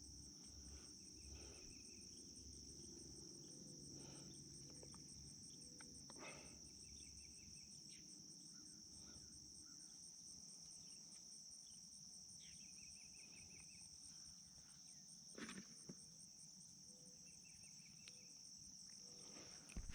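A steady chorus of insects: a continuous high, shrill drone with a fast pulsing trill above it, joined every few seconds by short chirping trains, with a few faint knocks.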